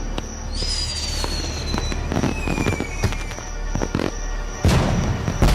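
Fireworks going off: two whistling shells with falling whistles, scattered sharp pops, and two loud bangs near the end.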